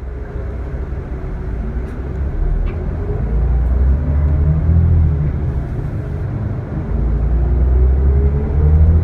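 Scania L94IB bus diesel engine pulling under load, its level building, easing off briefly about six seconds in, then building again.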